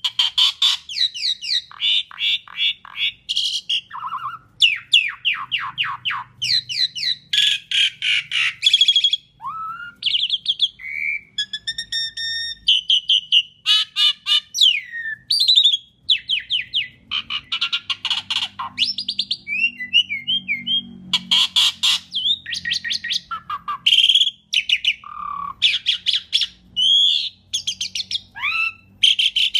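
Asian pied starling (jalak suren) singing a long, varied song: fast chattering runs, short whistled glides and harsh squawking notes in quick succession, with hardly a pause.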